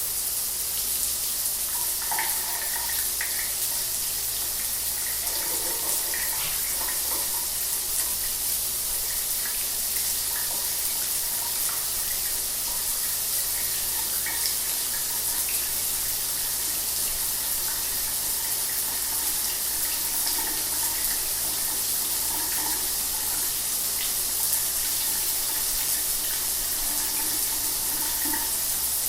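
Shower water running steadily, a constant hiss of spray with small splashes scattered through it.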